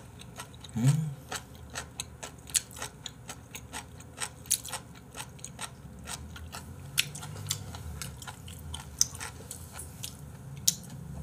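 Close-miked wet chewing of raw beef offal: many quick mouth clicks and smacks. A short hummed 'mm' comes about a second in.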